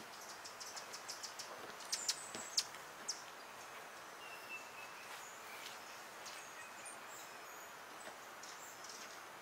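Small birds calling: a quick run of short, sharp high chips in the first three seconds, the loudest about two seconds in, then a thin held whistle and scattered high chirps over a faint steady background hiss.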